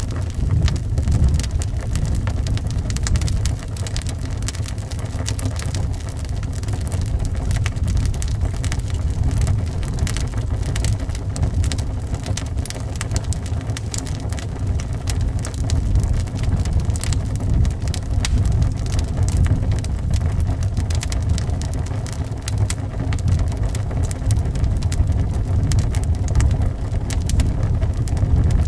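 Wood fire in a fireplace crackling, with many small pops and snaps over a steady low blowing of wind.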